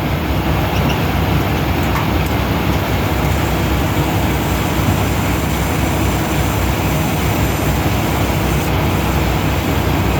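Steady rumble of an idling diesel truck engine with a broad hiss.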